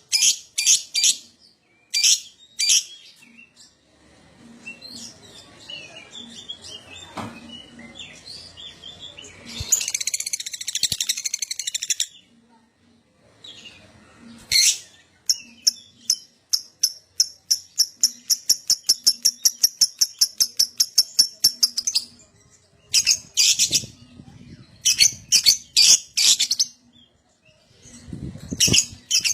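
Lovebird calling: bursts of sharp, high chirps and a long, fast chattering run of about five notes a second lasting several seconds. This is the 'ngekek' song that keepers use to prompt other lovebirds to sing.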